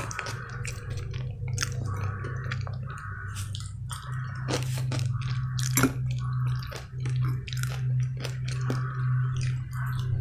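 Close-miked mouth chewing food, with wet clicks and crunches. About six seconds in, a fork hits a bowl of cucumber and tomato salad with a sharp clink. A steady low hum runs underneath.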